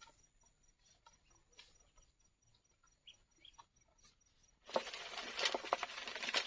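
Ducks feeding: faint scattered pecking ticks, then about three-quarters of the way in a sudden louder, dense patter of pecking clicks and rustling.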